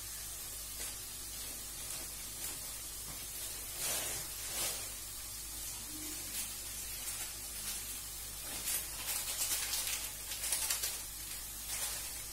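Sliced onion, tomato and spice powder frying in oil in a wok: a steady sizzle with scattered crackles, busier about four seconds in and again from about eight to eleven seconds.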